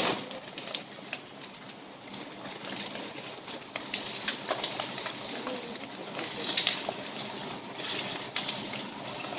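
A large pile of burning logs crackling and popping, with many sharp snaps over a steady hiss.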